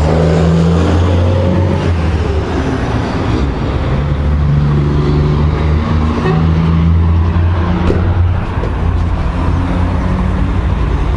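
A motor vehicle engine running steadily, a low hum that swells and eases a little every second or two.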